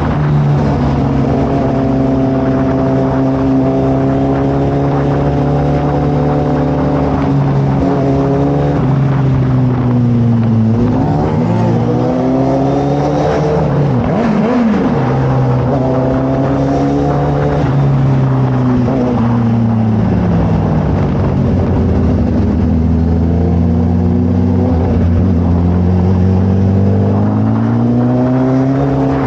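Suzuki Hayabusa's inline-four engine through a Brock's full exhaust, running steadily while riding. The note holds at first, drops and wavers through the middle, then climbs slowly again toward the end.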